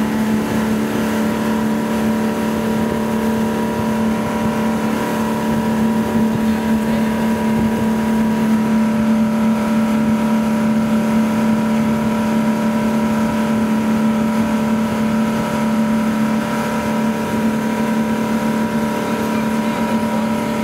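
Ski boat engine running steadily at full towing speed, pulling a barefoot skier, with the hiss of water and wind.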